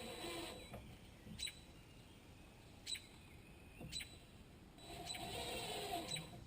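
Cordless impact driver driving screws into wood, in two short bursts of motor whine and rapid hammering, one at the start and one about five seconds in. Several sharp clicks fall between the bursts.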